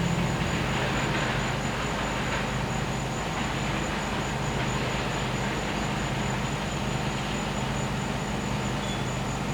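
Gas-powered generator engine humming steadily, with a high, steady insect trill from crickets over it.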